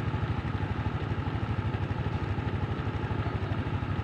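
Heavily loaded truck's engine running at low revs with a steady, even chug, labouring on an uphill climb.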